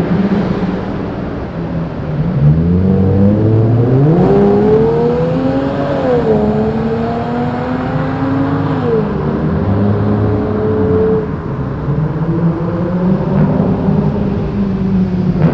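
Modified car engine and exhaust: a low steady idle, then the engine note climbs for about four seconds and drops sharply twice, like a car accelerating through gear changes, before settling back to a low steady running note.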